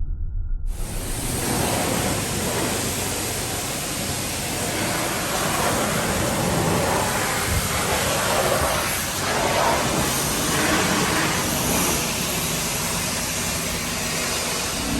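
Steady rushing noise with no pitch to it, cutting in suddenly under a second in and holding even throughout.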